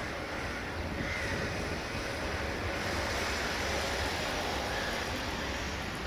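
Steady rushing noise with a low rumble: a distant freight train rolling past, mixed with wind on the microphone.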